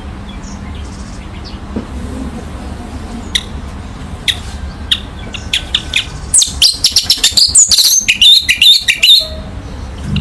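Orange-headed thrush singing: a few separate sharp, high notes, then from about six seconds in a loud, rapid run of high notes lasting about three seconds, over a steady low hum.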